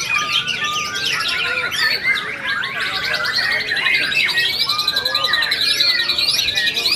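Caged white-rumped shamas (murai batu) singing, several at once: dense, overlapping whistles and chirps. From about three seconds in, a fast trill holds near one pitch.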